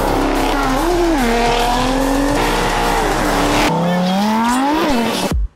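A Dodge Challenger's engine held at high revs while its tyres squeal and smoke in a burnout. About three and a half seconds in, a twin-turbo Lamborghini Huracán's V10 revs up in a rising pitch and drops back as it pulls away. The sound cuts off suddenly near the end.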